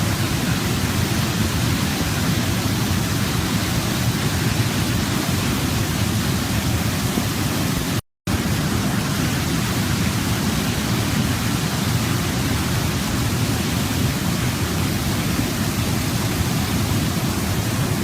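Waterfall rushing in a steady, even roar of falling water. The sound cuts out completely for a split second about eight seconds in, then resumes unchanged.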